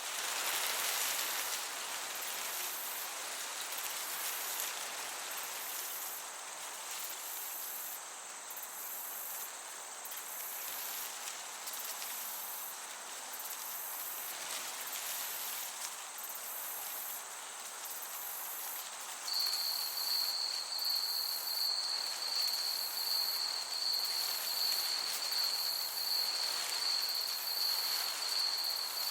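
Crickets chirping over a gentle breeze: a very high pulsing insect chorus runs throughout. About two-thirds of the way in, a louder, steady, high-pitched cricket trill starts and carries on.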